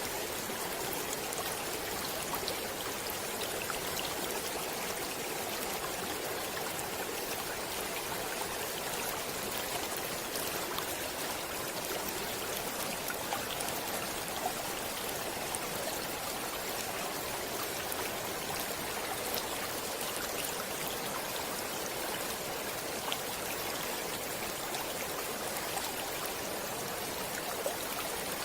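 Stream water flowing: a steady, even rushing with small splashes and ticks scattered through it.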